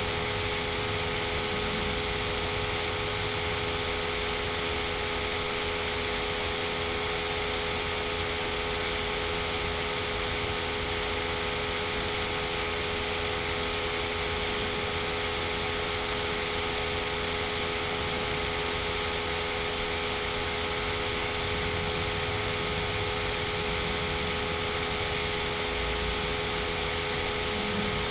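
Steady background hum and hiss with several constant tones, unchanging throughout: machine noise like a running computer fan, picked up by the microphone.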